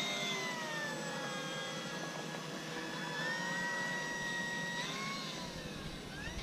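Electric brushless motor and propeller of an RC P-51D Mustang whining at high throttle, the plane just under way. The pitch holds steady, steps up about three seconds in, then dips and rises again near the end as the throttle changes.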